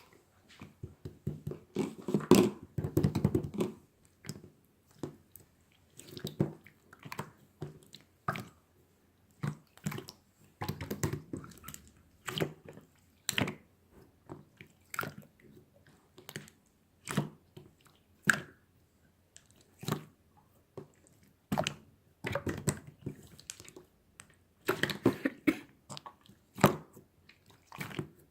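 Close-up chewing with irregular crunches and sharp clicks, coming in short clusters with pauses between them.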